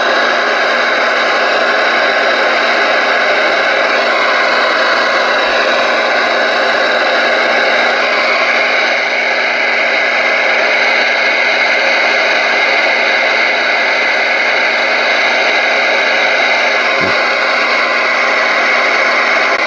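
Galaxy DX-99V2 radio on receive with the squelch open, its speaker putting out a steady, loud hiss of band static with no signal coming through.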